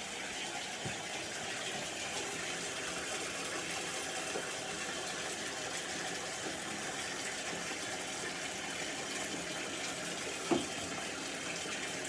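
Bathtub faucet running steadily, water pouring into a filling bubble bath. A short pitched sound near the end stands out above the water.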